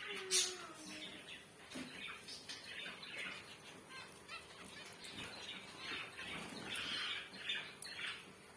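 Zebra finches calling: a run of short, repeated chirps, with a sharp click about half a second in.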